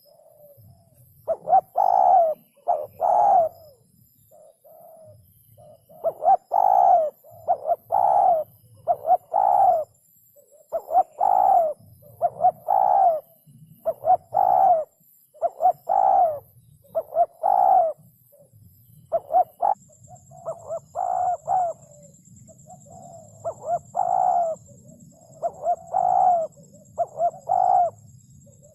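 Spotted dove cooing over and over, its short low coos coming in quick phrases about once a second, with brief pauses between phrases.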